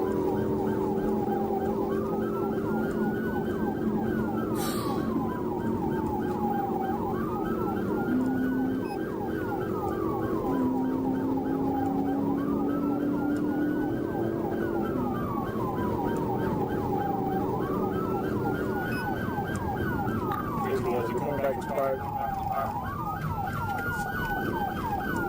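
Police car siren in a slow wail, rising and falling about every five seconds, with a faster pulsing pattern running under it.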